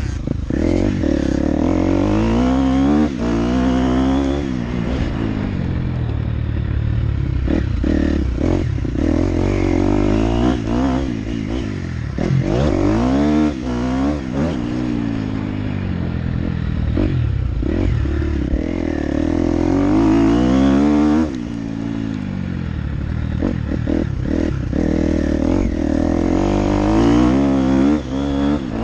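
Motocross bike engine being ridden hard, the revs climbing and falling back again and again every few seconds as the throttle is worked, with scattered knocks from the bike.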